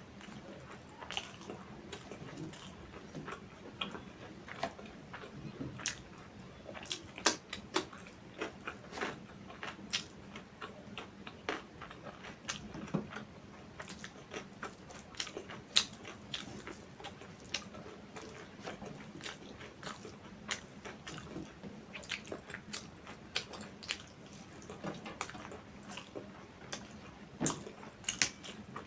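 Close-miked eating: chewing and mouth sounds, with frequent short, irregular clicks and smacks.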